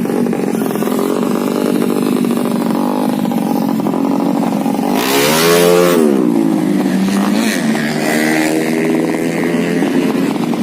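Honda C70 motorcycle with a tuned 200cc Karisma-based engine idling, revved once about halfway through: the pitch climbs and drops back to idle.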